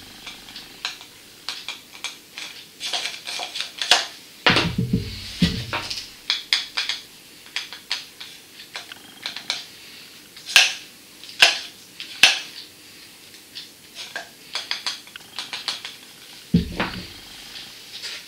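Irregular clinks and clatter of dishes and cutlery being handled, with a couple of duller thumps, one about four and a half seconds in and one near the end.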